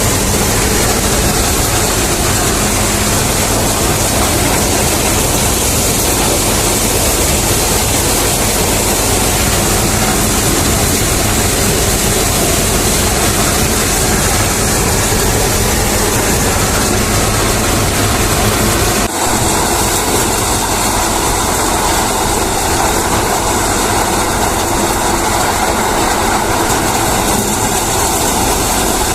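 Reinforce P-335 maize thresher running steadily, a dense mechanical din over a low engine drone. A sudden break about two-thirds of the way through, after which the sound shifts slightly.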